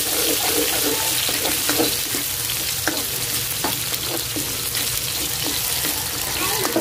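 Chopped onion and garlic sizzling in hot cooking oil in a pan, with scattered clicks and scrapes from a utensil stirring them.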